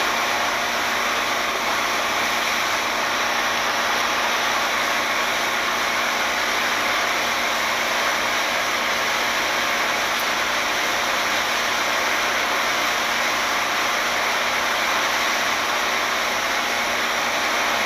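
A boat engine running steadily: a loud, even noise with a faint hum underneath, unchanging throughout.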